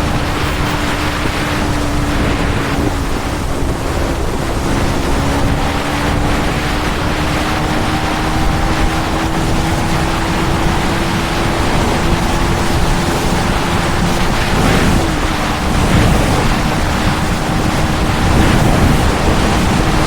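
KTM Duke 390 Gen 3's single-cylinder engine, breathing through an Arrow exhaust, running at a steady cruise with a brief dip in pitch about fifteen seconds in. Heavy wind rushes over the microphone.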